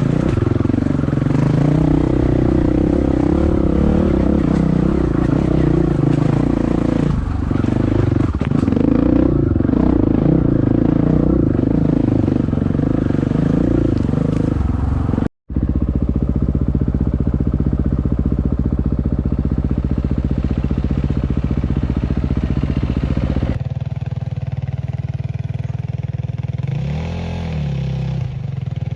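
Enduro dirt bike engine running on a trail ride, the throttle varying. The sound breaks off for an instant about halfway and comes back changed, and near the end the engine note rises and falls once in a short rev.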